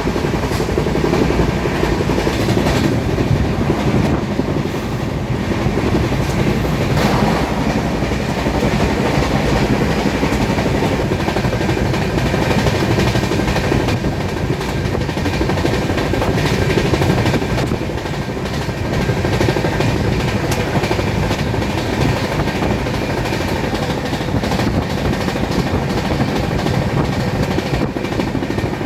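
Passenger train running along the line: a steady, loud rumble of wheels on rails with occasional clicks from the rail joints.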